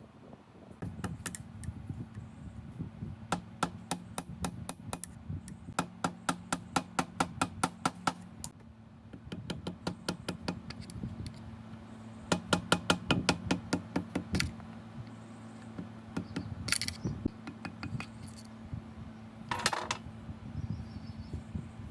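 Hand tools working on metal engine parts: sharp, evenly spaced metallic taps or clicks at about four to five a second, in three runs of a couple of seconds each, with a few single knocks between. A steady low hum runs underneath.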